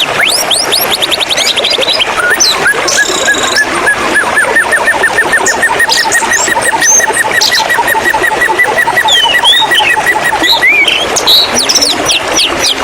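White-rumped shama (murai batu) singing over steady flowing-water noise, with a fast run of short repeated chirps from about two seconds in until near the end, then varied whistles.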